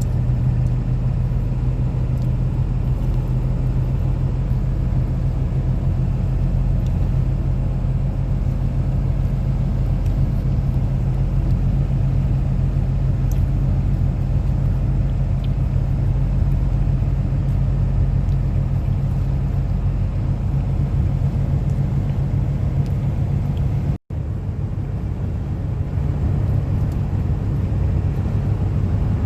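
Steady low rumble of a car's engine and tyres heard from inside the cabin while driving on the road. It drops out for an instant about four-fifths of the way through, then resumes unchanged.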